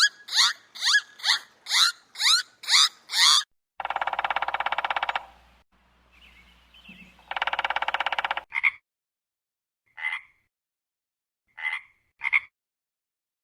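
Animal calls: a run of quick, high, falling chirps, about two a second, then two buzzing, rapidly pulsed calls about a second long, and then a few short, scattered calls.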